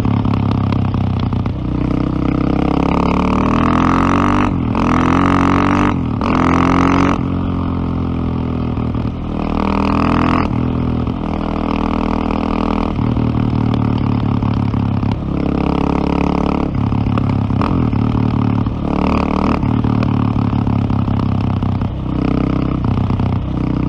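KTM LC4 620's single-cylinder four-stroke engine running under way, revving up through several quick gear changes a few seconds in and again around ten seconds in, then holding a steadier cruising note.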